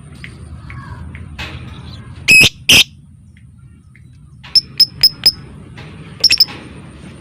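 Lovebird calling: two loud, harsh screeches about two and a half seconds in, then four short, sharp, high chirps at about four a second, and a quick burst of three more near the end.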